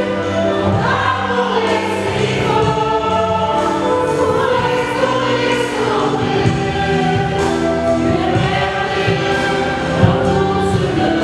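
Church choir singing a hymn with instrumental accompaniment, steady throughout.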